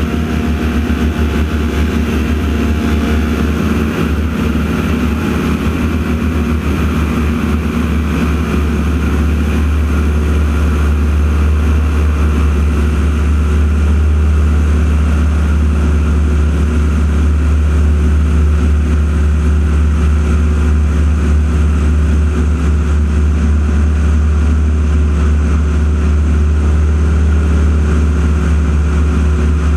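Radial engines of North American T-6 Texan propeller aircraft droning steadily during an aerobatic routine, getting a little louder about twelve seconds in.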